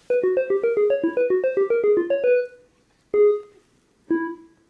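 A short keyboard jingle: a quick run of plinked notes for about two seconds, then two separate single notes about a second apart, each ringing out.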